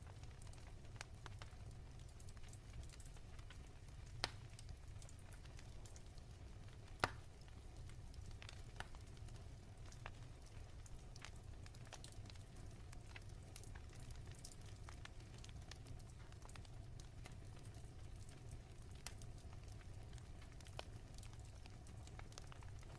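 Wood fire crackling softly in a fireplace: scattered small pops and snaps over a low steady rumble, with two sharper pops about four and seven seconds in, the second the loudest.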